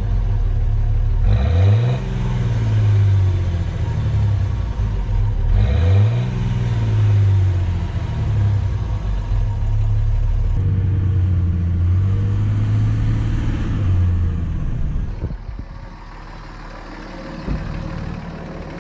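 Diesel pickup truck engine revved twice, each rev a quick rise in pitch, then running steadily and settling quieter near the end.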